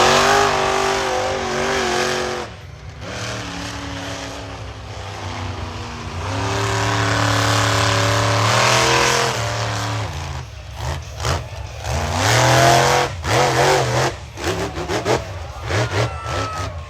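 Monster truck engine revving hard, dropping off about two seconds in, winding up again in long pulls, then cut into a run of short, sharp throttle blips near the end.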